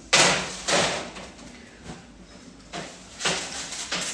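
Kitchen things being shifted about on a bench to clear space. There are four short scraping, clattering noises: two close together at the start and two near the end.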